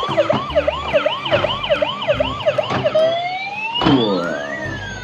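Battery-powered toy police car's electronic siren: a fast yelp of about three sweeps a second, switching about three seconds in to a slow wail that rises and then falls.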